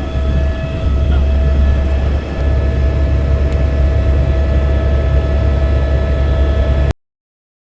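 Helicopter engine and rotor noise heard from inside the cabin in flight: a loud, steady, heavy low rumble with a constant whine above it. It cuts off abruptly near the end.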